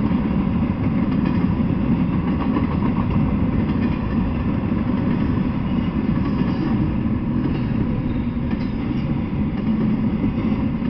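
Double-stack intermodal freight train of container well cars rolling past: a steady rumble of steel wheels on the rails.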